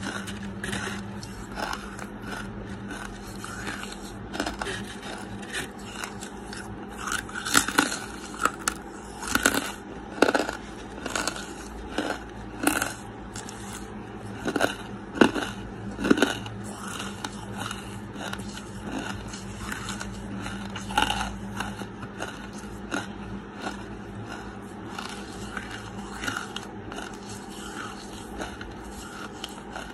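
Close-miked chewing of a mouthful of charcoal: a run of crisp crunches, loudest and most frequent between about 7 and 16 seconds in, over a faint steady low hum.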